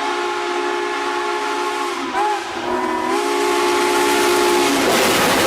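Steam locomotive chime whistle blowing one long chord of several notes, the pitch wavering briefly about two seconds in, with a loud hiss of steam swelling near the end as the whistle fades.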